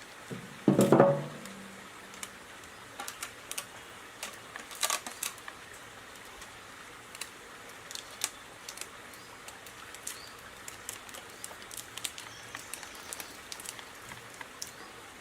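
Handling noise: a single heavy knock with a short low ring about a second in, then scattered light clicks and taps at irregular intervals.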